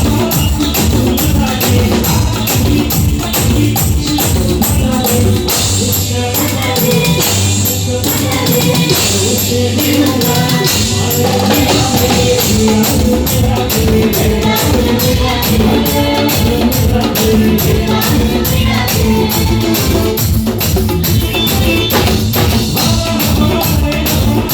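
Live band music with a fast, steady beat of drums and tambourine, and singing heard at times.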